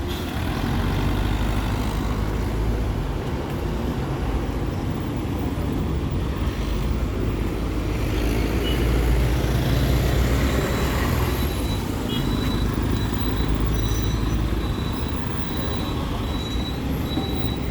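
Street traffic: heavy vehicle engines running close by, a steady low rumble that swells around the middle, with a thin high whine coming and going in the second half.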